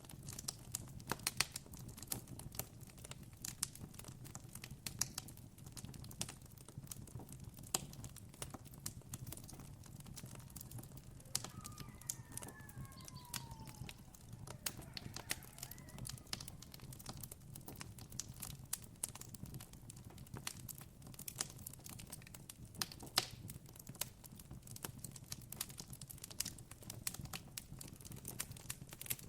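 Wood campfire crackling, with irregular sharp pops throughout over a steady low rumble. A few short bird chirps come in about halfway through.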